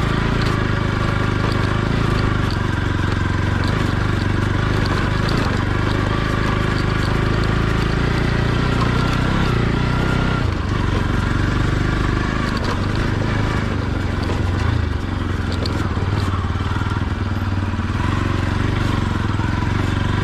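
Motorcycle engine running steadily under way, its note shifting about halfway through.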